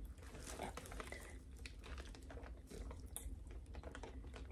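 Faint eating sounds from a seafood meal: soft chewing with scattered small clicks and taps.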